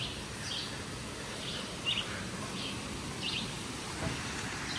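A bird chirping over and over, short high calls roughly every half second to a second, over the steady rush of flowing river water.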